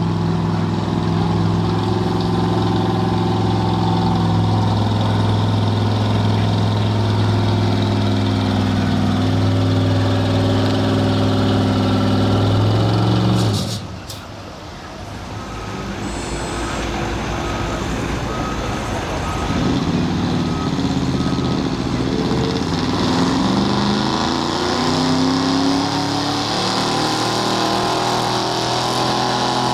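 Diesel stock semi-truck engine running hard with a steady drone, then dropping off suddenly about halfway with a short air-brake hiss. A string of even beeps follows, and then a diesel engine builds up again, its pitch rising.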